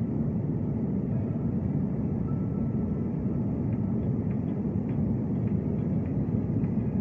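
Airliner engines giving a steady low rumble during take-off, holding an even level throughout.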